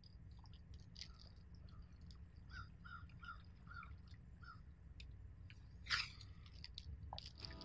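Faint outdoor ambience of birds calling, including a run of about six short, evenly spaced chirps near the middle, over a low steady rumble. A brief sharp knock comes about six seconds in.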